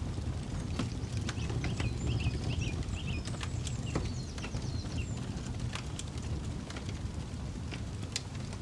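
Campfire crackling, with scattered sharp pops over a low steady rumble. A bird chirps a quick run of repeated notes during the first few seconds.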